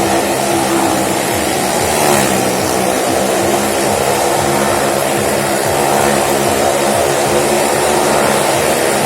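Motorcycle and car engines running steadily as they circle the wall of a well-of-death stunt arena, a loud continuous engine drone that swells briefly about two seconds in.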